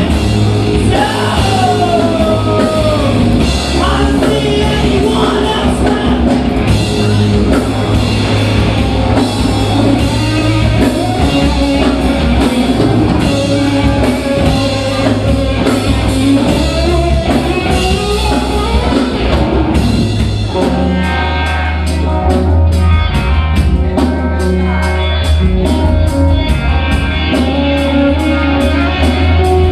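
Live rock band playing, a singer over electric guitar, bass and drums. About twenty seconds in the vocals drop out and an instrumental passage follows, with fast, even strokes.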